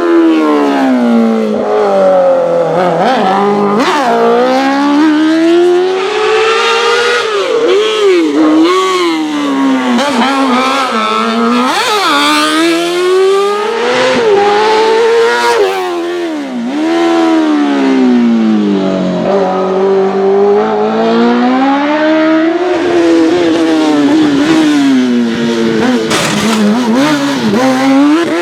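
Race car engine revving hard and falling back again and again, its pitch rising and dropping every second or two as the car accelerates and brakes through a tight cone slalom.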